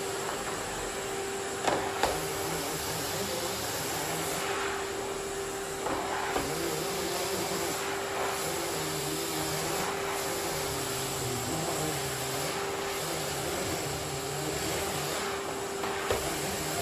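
Miele vacuum cleaner running steadily, a constant airy rush with a steady motor hum. A few sharp knocks of the nozzle sound over it, two close together about two seconds in.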